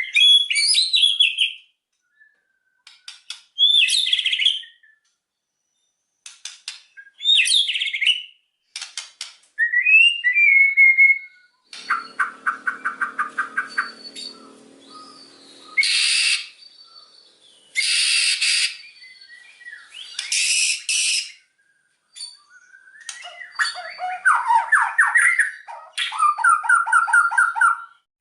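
White-rumped shama (murai batu) singing a varied song: sharp clicks and short whistled phrases with pauses between them, then a rapid rattling trill, three harsh rasping bursts, and fast trilled runs near the end.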